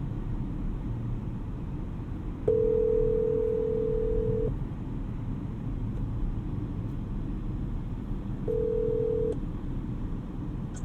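Telephone ringback tone of an outgoing call ringing out: one two-second ring about two and a half seconds in, then a second ring about eight and a half seconds in that cuts off short as the call is answered. A steady low rumble of road and engine noise inside the moving car runs underneath.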